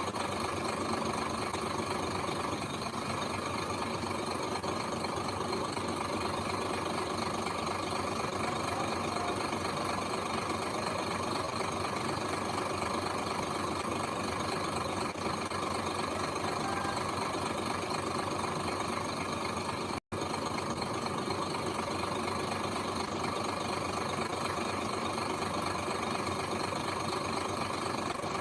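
Diesel engine of heavy earthmoving machinery running steadily, with a momentary dropout about two-thirds of the way through.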